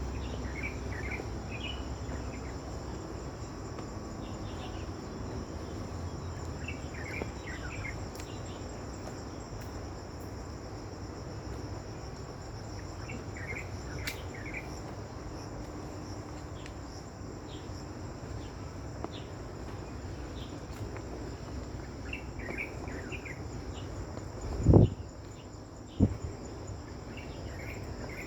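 A steady high-pitched chorus of insects, crickets by the sound of it, with scattered short chirps over it. Two dull thumps stand out near the end, a second or so apart.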